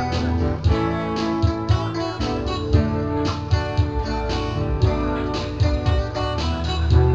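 Live guitar music in an instrumental passage with no singing: strummed guitar over a bass line, with a steady beat.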